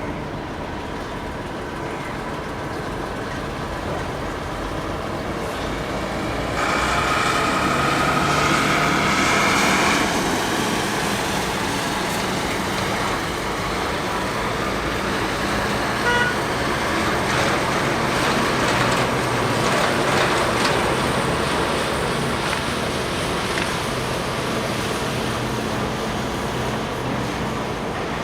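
Jet airliner's engines on landing: a steady rush of jet noise that swells about six seconds in, carrying a high whine for a few seconds before settling back into a broad rush.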